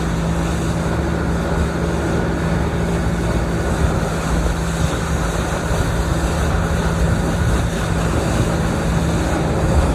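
Motorboat engine running steadily while the boat is under way, a constant hum over the rush of wind and water.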